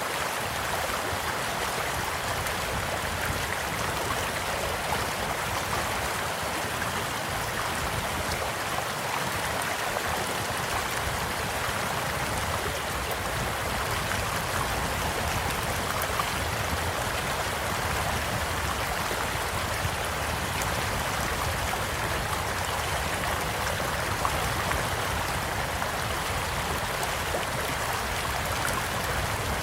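A gently flowing stream, a steady unbroken rush of water, with a few faint crackles and pops from a campfire now and then; the clearest pops come about sixteen and twenty-four seconds in.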